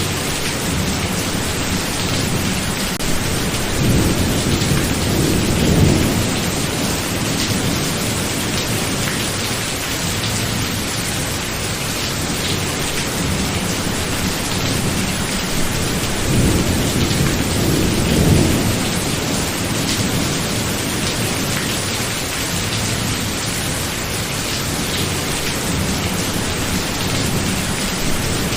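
Steady heavy rain with thunder rumbling twice, a low swell about four seconds in and again about sixteen seconds in.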